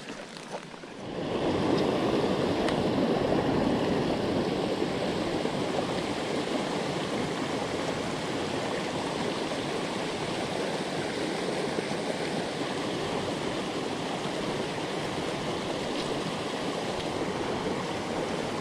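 Steady rush of a shallow jungle stream running over rocks, getting louder about a second in and then holding steady.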